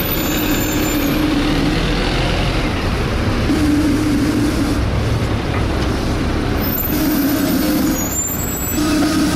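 Volvo B7TL bus engine and drivetrain running under way, heard from inside the bus, with a droning note that swells and fades about every two to three seconds.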